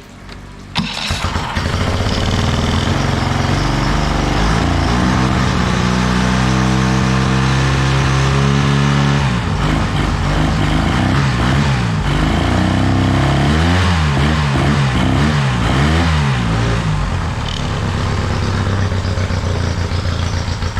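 Parsun 25 hp outboard motor, newly fitted with a replacement carburetor, starting about a second in. Its speed is raised in steps, then revved up and down several times before it settles back to a steady idle.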